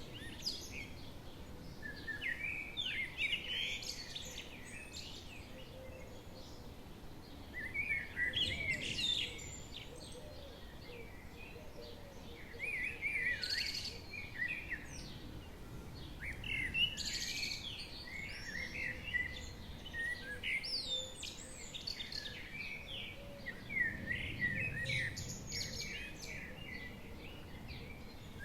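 Songbirds singing in short bursts of chirps and trills, a new phrase every few seconds, over a faint steady background hiss.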